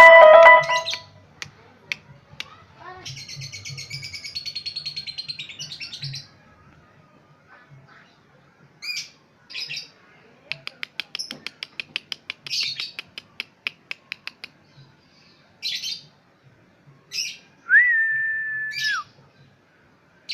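A songbird singing a varied song: a loud harsh call at the start, then a rapid high trill, scattered sharp chirps, a fast run of clicking notes, and near the end a steady held whistle that drops away at its close.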